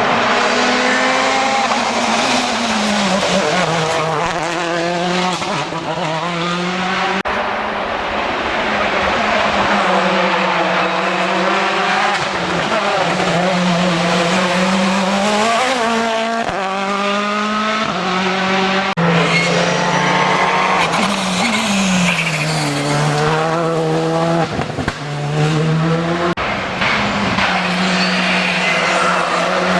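Rally cars at full race pace: engines revving high and dropping back again and again through gear changes and braking, the pitch rising and falling repeatedly. The sound changes abruptly a couple of times, as from one car to the next.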